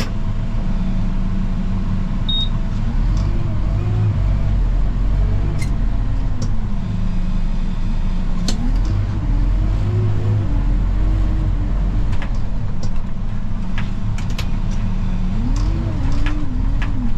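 Snow-plow tractor engine running steadily under load, heard from inside the cab. Its pitch rises and falls a few times, about three seconds in, around nine to eleven seconds in, and near the end, with faint scattered clicks and knocks.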